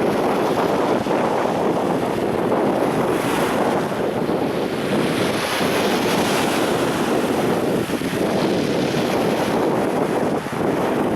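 Sea waves washing steadily onto the beach, a continuous surging rush of surf with slow swells.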